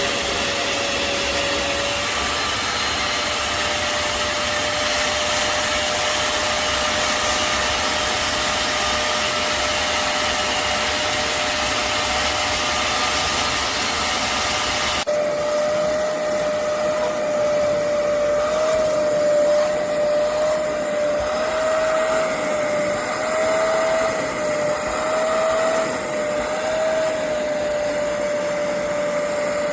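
Hoover CleanSlate Plus portable carpet spot cleaner's suction motor running with a steady whine and airy hiss. About halfway through the hiss thins and the pitch of the whine wavers slightly.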